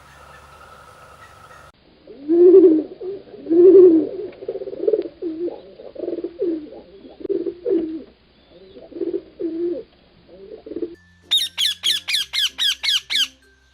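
A dove cooing in a long run of low, repeated phrases, the first two the loudest. Near the end a different bird gives a quick series of about nine high, sharp notes.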